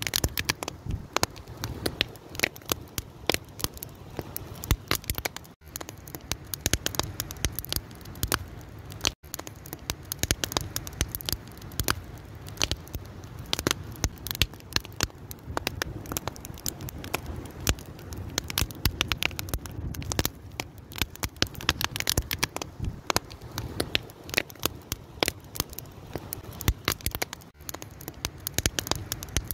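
Wood fire crackling: dense, irregular pops and snaps over a steady low rumble of burning.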